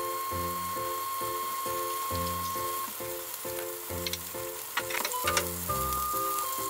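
Pork-stuffed green peppers sizzling in hot oil in a frying pan, under background music with a steady beat. A few sharp clicks come about four to five seconds in.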